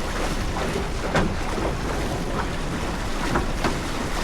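Wind buffeting the microphone and water rushing and splashing along the hull of a sailboat under way, with short splashes about a second in and twice more near the end.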